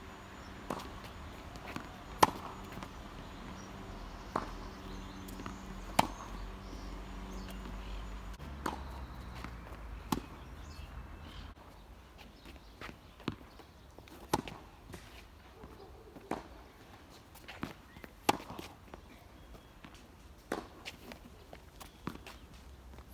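Tennis balls struck again and again by a Head Graphene 360 Extreme strung with Tecnifibre Black Code 1.24 polyester at 44 lb (20 kg): sharp pops off the strings roughly every two seconds, with softer knocks in between.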